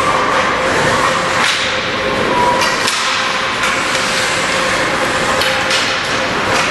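Ice hockey game sounds: sharp cracks of sticks striking the puck and each other, several over a few seconds, over a steady noisy din of skates and arena noise.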